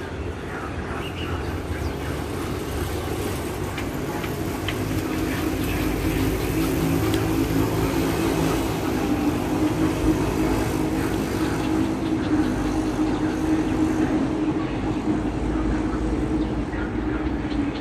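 Steady low rumble of vehicle noise, with a humming tone that grows stronger about halfway through.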